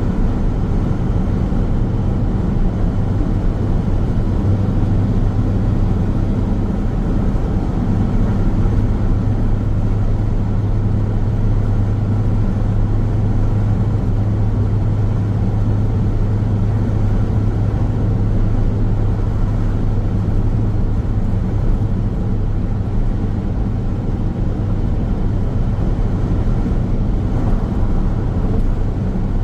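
Car travelling at speed on a paved road: steady tyre and road noise with a low drone, a little stronger in the middle.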